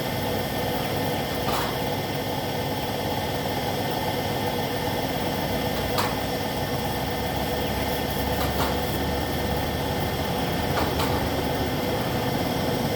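Steady mechanical hum with a few faint clicks now and then.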